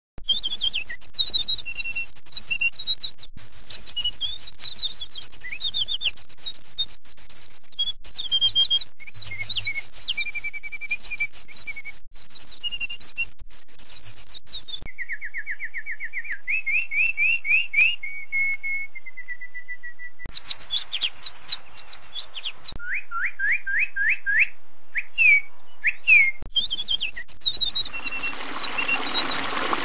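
Songbirds singing in rapid chirps and trills, in several recordings cut one after another. Running water comes in near the end.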